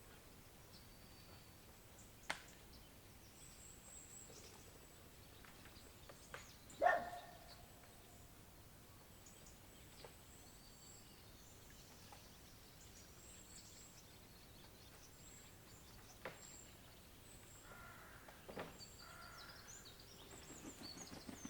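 Angry bird calls, which the recordist takes most likely for a blackcap's: sharp, isolated call notes every few seconds, the loudest about seven seconds in and a short cluster near the end. Faint high chirping sits behind them over a steady outdoor hiss.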